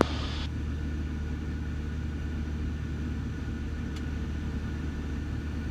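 Steady low drone of a Cessna 172 Skyhawk's engine and propeller in the climb after takeoff, heard from inside the cabin, with a short hiss at the very start.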